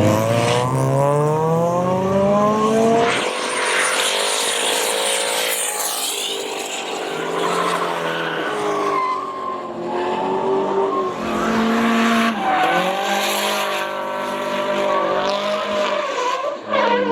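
Drift car's engine revving hard, its pitch climbing over the first few seconds, then held at high revs and rising and falling with the throttle while the tyres squeal and skid in a slide.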